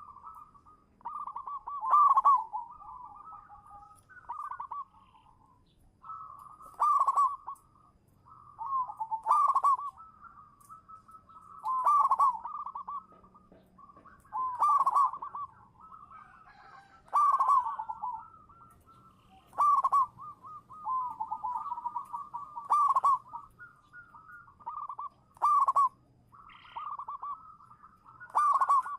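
Zebra dove (perkutut) cooing: a loud, rapid, stuttering coo phrase about every two and a half seconds, with softer trilled notes between the phrases.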